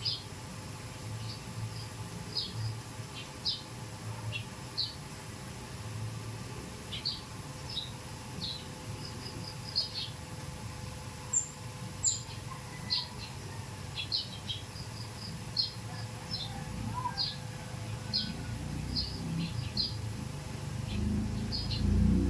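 Small birds chirping, short high chirps repeated irregularly, over a low rumble that grows louder near the end.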